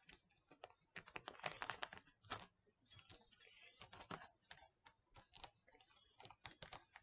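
Faint, irregular clicks and rustles of comic books in plastic sleeves being handled and shuffled.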